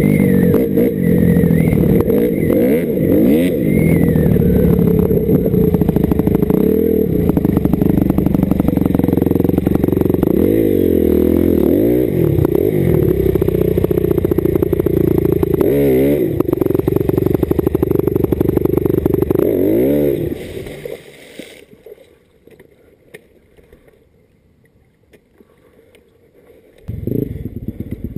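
Dirt bike engine running hard, revving up and down several times. About 21 seconds in it drops to quiet, and a louder sound comes back shortly before the end.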